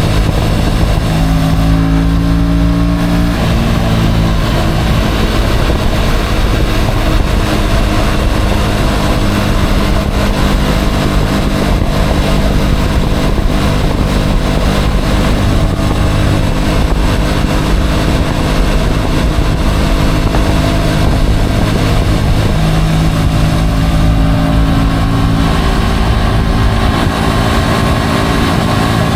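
Motorcycle engine running on the move, its pitch rising and falling a few times with the throttle, over heavy wind rumble on the microphone.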